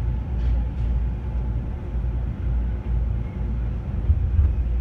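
Low, steady rumble of an E217-series electric train, heard from inside the car as it creeps along the platform to a stop.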